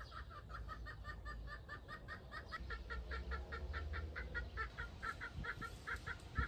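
A bird calling a fast run of short, repeated notes, about five a second, for some six seconds, over a low wind rumble. A single sharp knock near the end.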